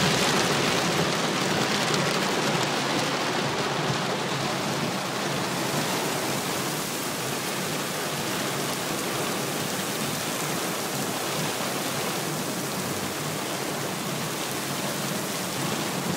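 Heavy rain on a moving car: a steady, dense hiss that eases slightly over the first few seconds.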